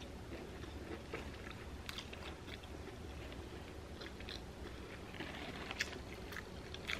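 Faint chewing of crunchy food close to the microphone, with a few small crisp clicks and crunches spread through.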